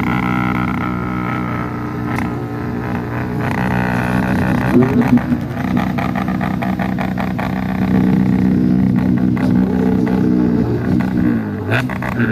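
Kawasaki ZX-10R superbike's inline-four engine running under way at steady revs, with a brief wobble in pitch about five seconds in and again near the end.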